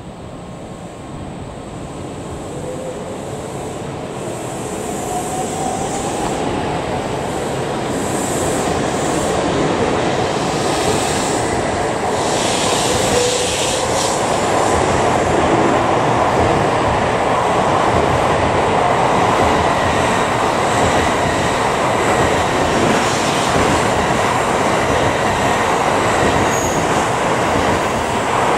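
N700S Shinkansen train pulling out of the station and gathering speed. A rising whine in the first several seconds, then the rush of wheels and air, growing steadily louder over about fifteen seconds and then holding.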